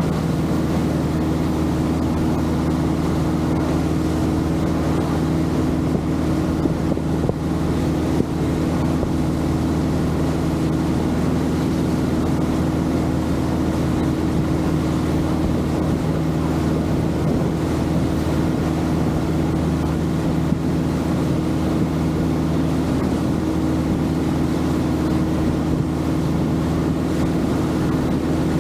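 Longtail boat engine running steadily, an unchanging drone with water and wind noise around it.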